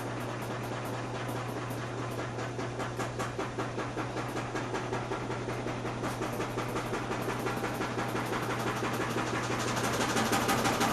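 Washing machine running with a steady hum and a fast, even knocking that grows louder near the end, a noise its owner calls not good.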